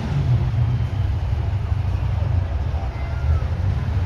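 Heavy truck's diesel engine running close by with a loud, steady low rumble.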